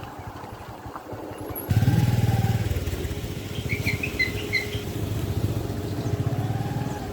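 Motorcycle engine running with an even firing pulse, becoming much louder about two seconds in, with a few short high chirps near the middle.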